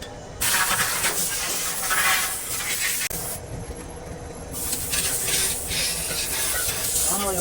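Two long blasts of loud hissing from a high-pressure jet, each about three seconds, with a gap of about a second between them.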